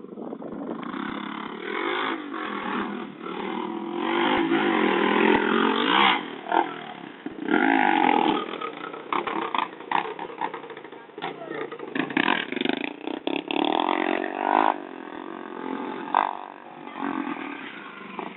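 Light motorcycle engine running and revving, its pitch rising and falling over the first several seconds. After that come many short knocks and clatters mixed in with the engine.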